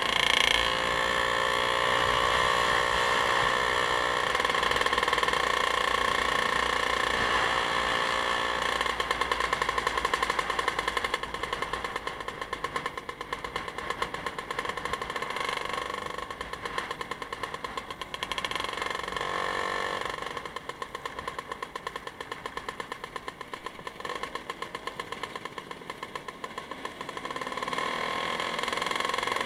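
Vehicle engine running while under way on the road, its pitch rising and falling with changes of speed a few times, with a choppy, fluttering roar in the middle stretch.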